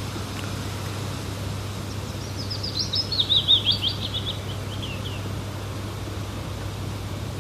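A songbird sings one phrase of quick notes that step down in pitch, starting about two seconds in and lasting about three seconds, over a steady low hum and hiss.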